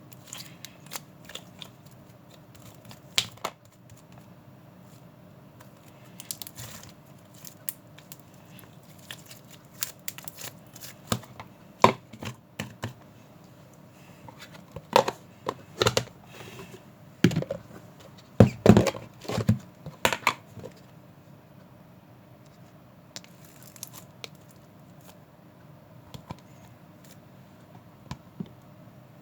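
Irregular handling noises: short crinkles, rustles and sharp clicks, busiest in the middle, over a faint steady hum.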